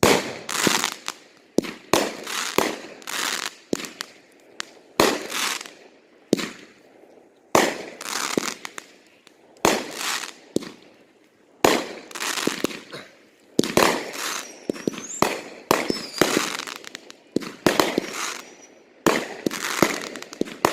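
Fireworks going off in quick succession: a string of loud bangs, roughly one a second, each trailing off in crackling.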